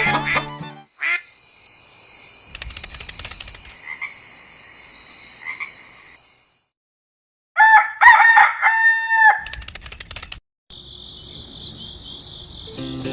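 Frogs trilling steadily in a chorus. About eight seconds in, the trilling stops and a rooster crows loudly once for about two seconds, then the trilling starts again.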